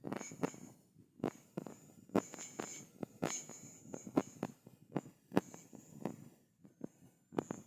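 Wood bonfire crackling, with sharp pops every half second or so. Crickets trill steadily in the background.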